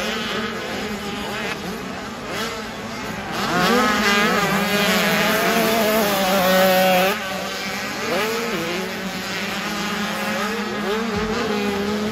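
Several 85cc two-stroke motocross bikes running on the track, their engine notes rising and falling as they rev and shift. The bikes are loudest from about a third of the way in to past the middle.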